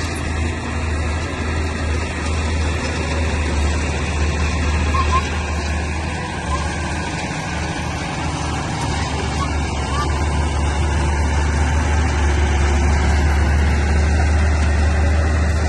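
Heavy construction machinery's diesel engine running steadily with a low drone, growing somewhat louder in the second half.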